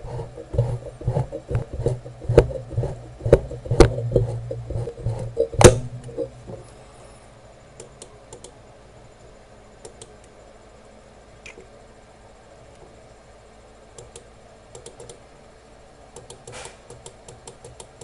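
A quick, irregular run of sharp clicks and taps over a low hum for about the first six seconds. After that only a few faint, scattered ticks remain.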